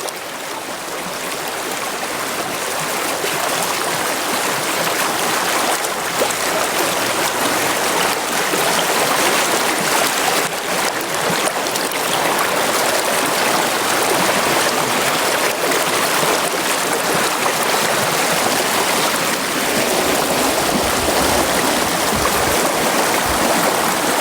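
Brook running: a steady rush of flowing water that grows louder over the first few seconds and then holds even.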